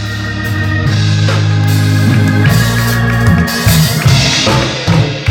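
Church worship music: sustained organ chords over a deep bass, swelling in the first couple of seconds, with drum and cymbal hits joining in the second half.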